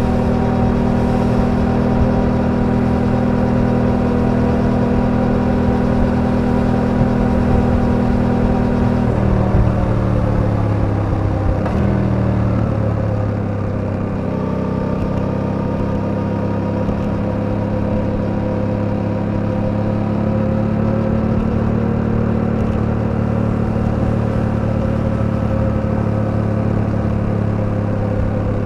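Suzuki V-Strom 800DE's parallel-twin engine running steadily while riding; about a third of the way in the revs fall over a few seconds, then the engine holds a steady, lower note.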